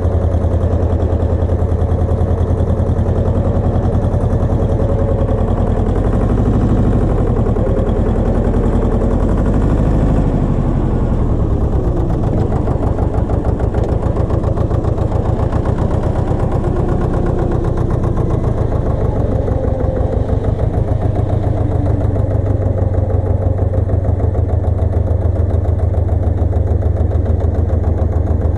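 Engine of a Pasquali 980 EX two-wheel tractor running with a rotovator, a loud, steady, deep engine rumble. The engine note drops for a few seconds about a third of the way in, then runs steady again.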